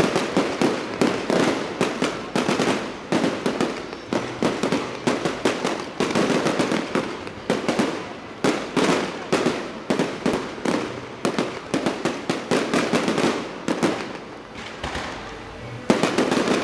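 Fireworks going off in a rapid, near-continuous series of sharp bangs and crackles, several a second, easing briefly near the end before picking up again.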